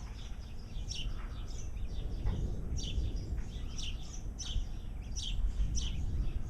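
Songbirds chirping: many short, high calls in quick succession, each dropping in pitch, over a steady low rumbling noise.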